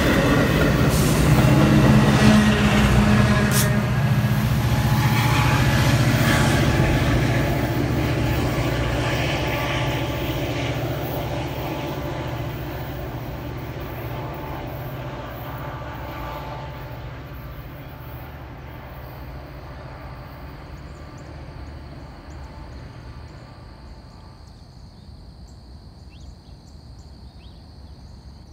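Train rumbling and wheels clattering on the rails, fading steadily over about twenty seconds as the train moves away, until it is faint.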